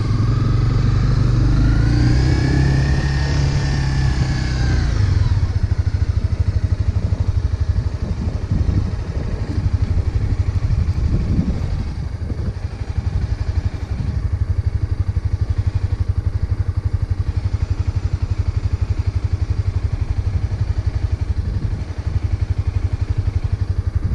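Motorcycle engine rising and falling in pitch for the first few seconds, then settling into a steady idle.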